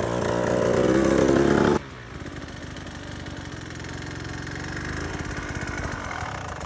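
Dirt bike engine revving up, rising in pitch, then dropping suddenly about two seconds in to a quieter, steady running sound.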